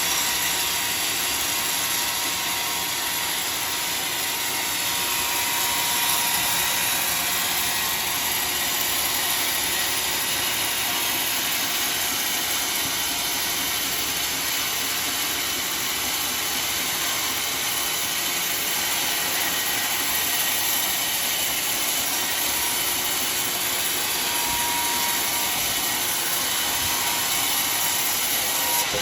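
Sawmill saw cutting through a large log, a steady hiss that holds even throughout with no breaks.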